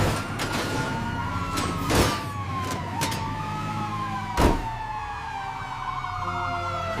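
Emergency vehicle siren wailing in a long tone that slowly falls in pitch, over a steady low vehicle rumble. Two sharp whoosh-like hits cut through, about two seconds in and again about four and a half seconds in.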